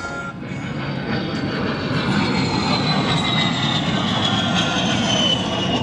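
A-10 Thunderbolt II's twin TF34 turbofan engines on a low flyby: a jet roar that grows loud about a second in, with a high whine that slowly falls in pitch as the aircraft passes.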